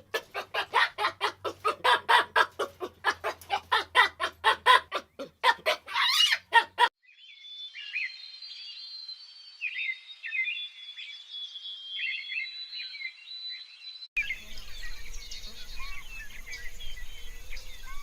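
A fast, even run of repeated animal calls, about four a second, for the first seven seconds. Then small birds chirping, high and scattered. After a cut about two-thirds of the way in, more bird chirps over a steady outdoor background.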